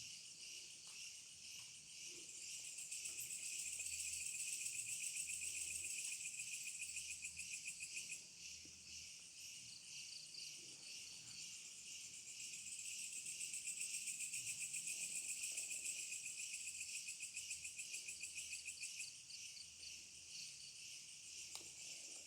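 Night chorus of insects such as crickets: a dense, rapid high-pitched trilling that swells louder twice and then eases back.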